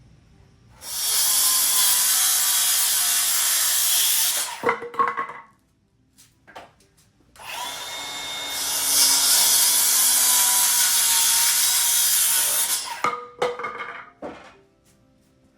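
A handheld power tool runs in two long bursts of about four and five seconds, with a few knocks and clatter after each.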